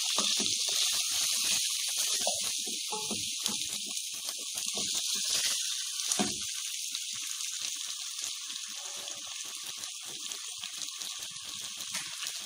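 Chicken pieces frying with whole spices in an enamel pot, a steady high sizzle, while a wooden spatula stirs and turns them, its scrapes and knocks mostly in the first half.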